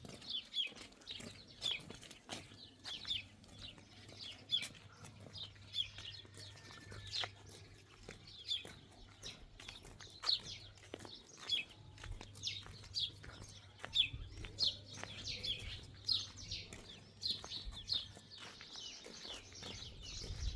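Small birds chirping: short, high, downward-sliding chirps repeating one to two times a second, with scattered clicks and a low steady hum underneath.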